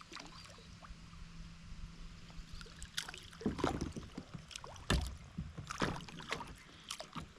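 Scattered knocks and short scuffing and splashing sounds of movement in and around a plastic kayak, coming more often and louder after about three seconds, with a faint steady low hum in the first half.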